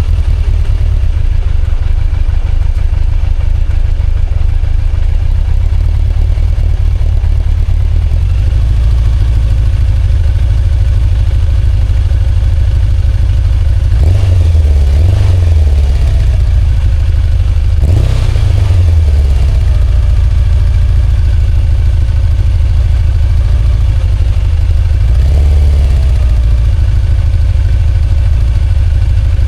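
Kawasaki ZZR1100 inline-four motorcycle engine idling steadily, revved briefly three times: twice around the middle and once near the end. This engine has begun blowing heavy white smoke, which the owner suspects is oil past the valve guides or rings, or coolant getting into the cylinders.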